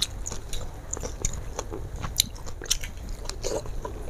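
A person chewing a mouthful of tofu and bean sprouts, with irregular wet clicks and smacks of the mouth.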